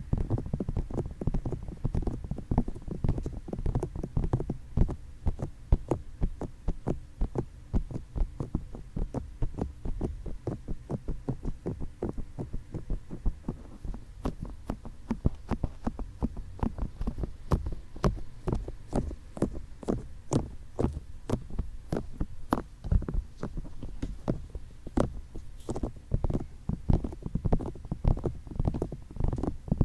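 Fingertips tapping and rubbing on the ears of a binaural ASMR microphone: rapid, muffled thuds, with sharper, brighter taps mixed in from about halfway through.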